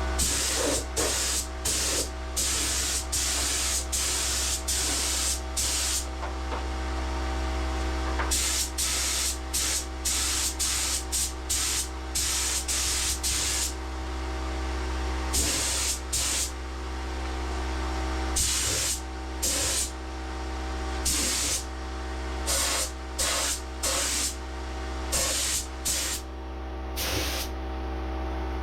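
Air spray gun hissing in many short bursts as the trigger is pulled on and off, laying epoxy primer on car panels, over a steady low hum.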